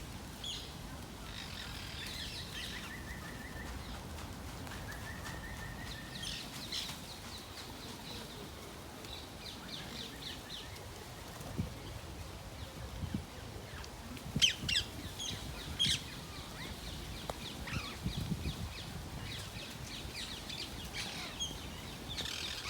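Birds calling on and off over a steady low outdoor rumble: scattered short chirps and calls, with a cluster of sharper, louder calls about two-thirds of the way through.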